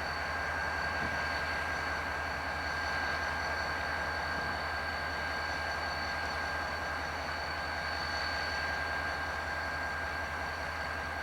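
Diesel locomotive running steadily: an even mechanical noise with a constant high whine, unchanging in level.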